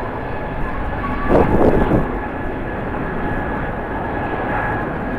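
Jet airliner engines running, a steady roar with a thin high whine, heard in strong wind. A louder rush comes about a second and a half in.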